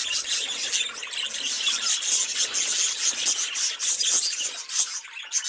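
Budgerigars warbling and chattering: a dense, continuous stream of rapid high-pitched scratchy chirps and squeaks.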